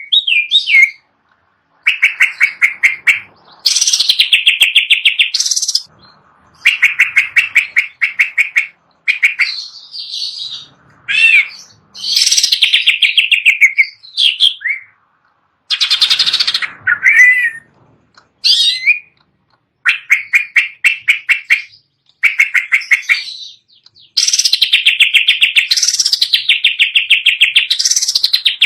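Cucak ijo (green leafbird) singing: loud phrases of rapid repeated chattering notes, mixed with swooping whistles, each lasting one to two seconds with short pauses between.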